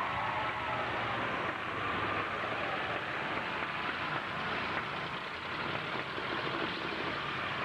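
Demolition derby trucks' engines running together as a dense, steady noise.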